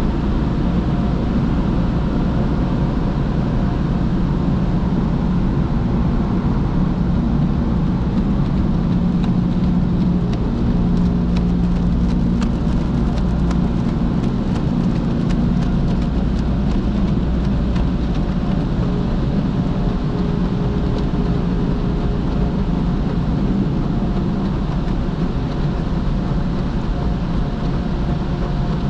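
Automatic car wash machinery running steadily: a low hum and rumble, with a spell of fine ticking in the middle.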